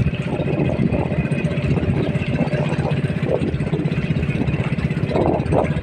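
Motorboat engine running steadily with a low, rapid chug.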